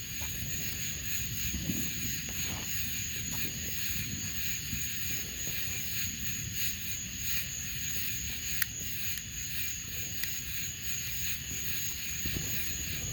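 Steady outdoor ambience: a constant high-pitched drone over a low rumble of wind on the microphone, with two faint sharp pops, one about eight seconds in and one about ten.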